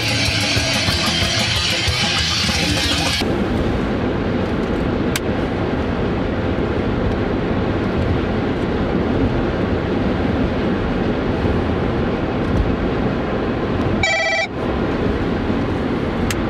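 Loud heavy-metal music with distorted guitar plays in a car and cuts off suddenly about three seconds in. Steady road noise inside the moving car follows. Near the end comes a brief electronic trill.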